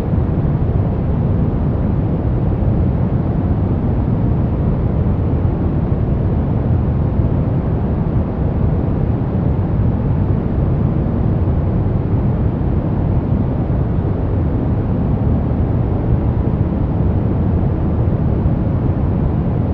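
Continuous steady noise from a sleep and relaxation noise track sold as white noise, deep and rumbling, most of its weight in the low end with only a soft hiss above. It runs completely even, with no changes or separate sounds.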